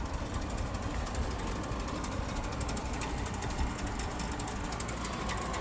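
Outdoor air-conditioner unit running with a loud, steady, fast rattle over a low hum.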